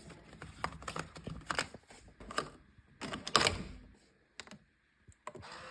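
Irregular sharp clicks and taps of small objects being handled, with a louder clatter about three seconds in, then a short near-silent gap and a few last clicks.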